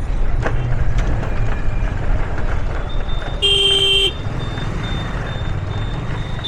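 Traffic heard from a moving motorcycle: a steady low rumble of engine and road noise, with a single short vehicle horn honk about halfway through.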